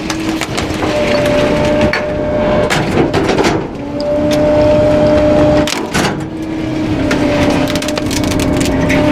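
Garbage truck's packer compacting bulky items: wood cracking and splintering under the crush, over a steady machine hum that cuts out and comes back several times.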